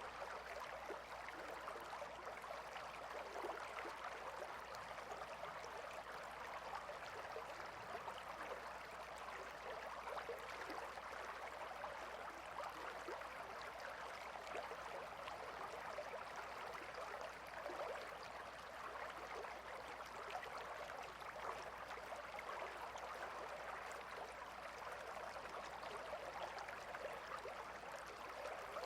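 Gentle river flowing, a soft steady rush of water.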